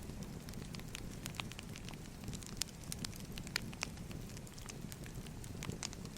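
Wood fire crackling: irregular sharp pops and snaps, several a second, over a low steady rumble of burning logs.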